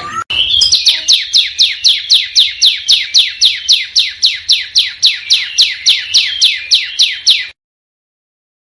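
Small songbird singing a fast, even series of high notes that each sweep downward, about four a second, for some seven seconds, then cutting off abruptly into silence.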